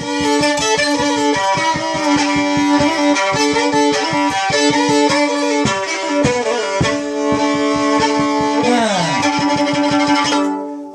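Fiddle playing an instrumental break in a folk song, sustained notes over a fast, even rhythmic pulse. Near the end a note slides down, and the playing stops abruptly just before singing resumes.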